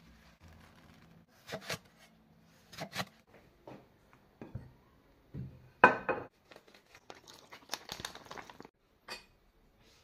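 Packaging being handled: crinkling and tearing, with scattered short knocks, the loudest about six seconds in.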